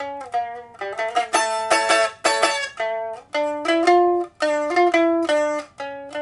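Redwood liuqin made by Song Guangning in 2000, plucked in a lively melody of separate notes with quick runs, its first string steel. It is being test-played after repair with a new soundboard, taken from a pipa, that the owner describes as giving a mid-to-low voice.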